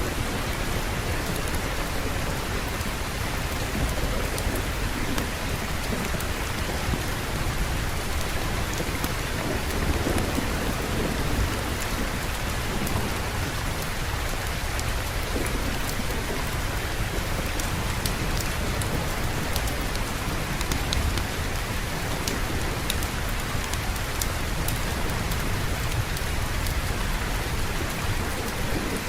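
Steady rain falling, with low rumbling thunder underneath that swells about ten seconds in.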